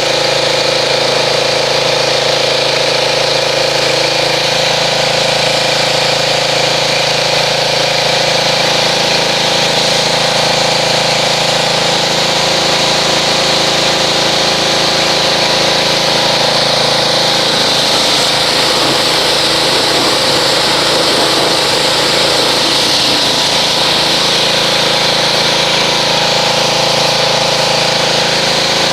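Pressure washer running steadily, its motor and pump humming under the hiss of the water spray, as it rinses car-wash foam off a truck.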